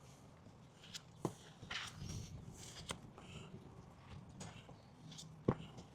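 Faint scraping and scattered light clicks of body filler being mixed and spread, with one sharper click about five and a half seconds in.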